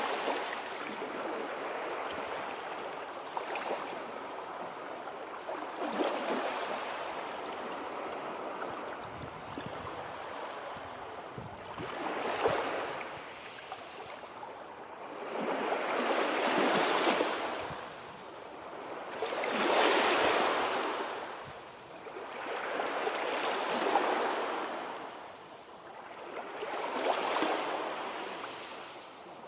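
Sea waves washing onto the shore: a steady rush at first, then swells that build and fall back about every four seconds.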